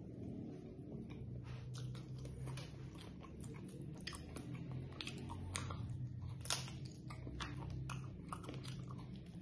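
Close-miked chewing of grilled chicken boti, with many sharp mouth clicks and one louder click about six and a half seconds in. A steady low hum runs underneath.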